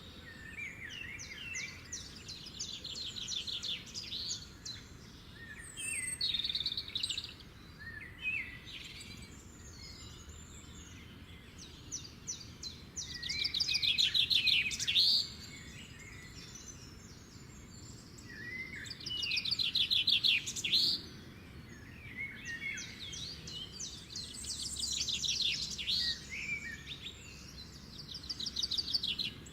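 Small birds chirping and twittering, with fast trilled chatter in repeated bursts, the loudest about halfway through and again about two-thirds of the way through.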